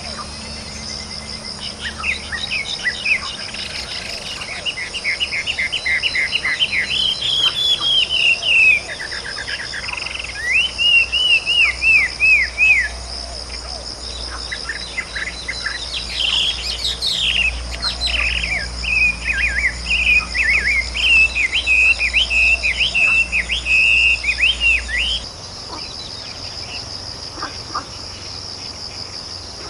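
A songbird singing phrases of quick repeated whistled notes, each phrase lasting a few seconds, over a steady high insect drone. Near the end the singing stops and only the insect drone remains.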